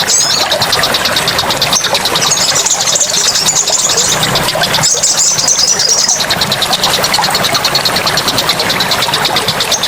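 Forest ambience. A fast, even, high-pitched pulsing trill runs throughout over a rushing background, swelling into a louder high buzz twice. A short bird chirp comes right at the start.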